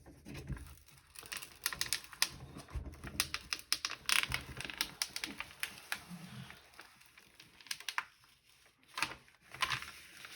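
A diamond painting canvas and its wrapping being opened and unrolled by hand: crinkling and rustling with many quick clicks and taps, in two busy spells separated by a quieter stretch.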